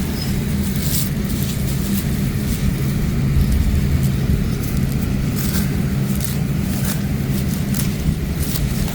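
A steady low hum runs throughout, with scattered short clicks and rustles of wild greens being dug up and pulled by hand.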